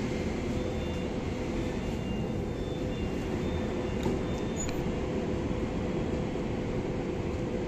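SKM suburban electric train at the platform, doors closed, giving off a steady low drone with a steady mid-pitched hum. There are a couple of faint clicks about halfway through.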